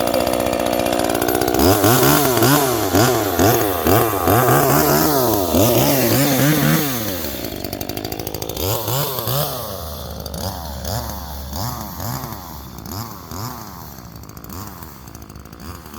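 Husqvarna two-stroke chainsaw being revved again and again, its pitch climbing and dropping about twice a second. About seven seconds in the revving eases off into quieter, more widely spaced blips over a steady idle.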